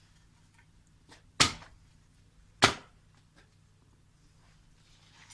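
Two sharp impacts about a second and a quarter apart, each dying away quickly, with a few faint knocks between.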